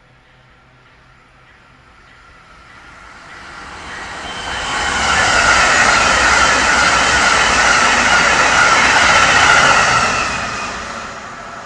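A train passing at speed: a rush of wheels and air that builds over about five seconds, stays loud for about five seconds with a faint steady whine through it, then fades quickly.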